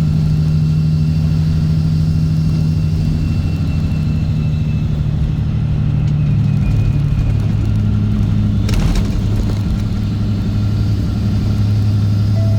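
Straight-piped Caterpillar C15 ACERT diesel in a Kenworth W900 running loud and steady, its pitch dropping about halfway through as the revs fall. A short sharp noise comes about nine seconds in.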